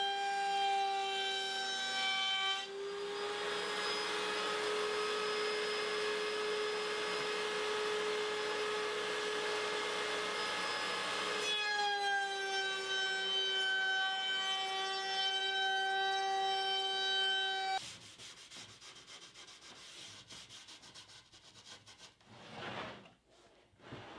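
A woodworking power tool's motor runs with a steady whine. For about nine seconds it cuts through wood with a loud rushing noise, then runs free again. About eighteen seconds in it stops abruptly, and quieter rubbing on wood follows, with a couple of louder strokes near the end.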